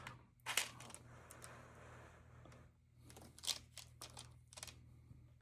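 Stamp album being handled: faint rustling and a handful of light clicks as pages and stamps are moved, most of them bunched together in the second half, over a low steady hum.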